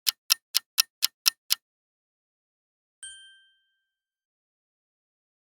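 Clock-tick countdown sound effect, sharp ticks about four a second, stopping about one and a half seconds in; then a single short bell ding about three seconds in, marking that the time to answer the quiz question is up.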